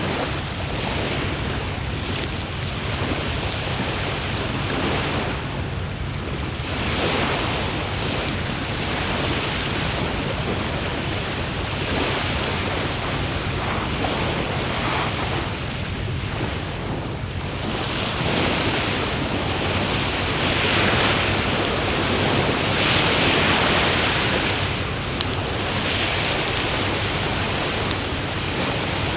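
Wood campfire burning with a steady rushing of flames, swelling a little past the middle, and scattered small crackles and pops. A steady high-pitched tone sounds throughout.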